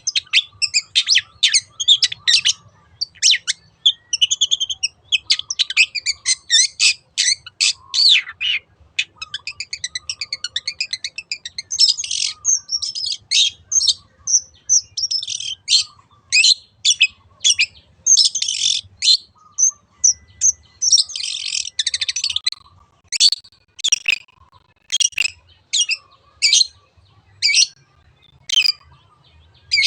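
Long-tailed shrike (cendet) singing a fast, varied song of short chirps and harsh scratchy notes. A rapid trill comes about ten seconds in, and widely spaced sharp calls follow in the last third.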